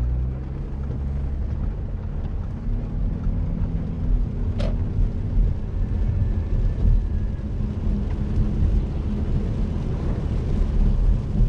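Audi A7's 3.0 TDI V6 diesel heard from inside the cabin as the car accelerates away from a junction, with tyre noise from the wet road. A single sharp click comes about halfway through.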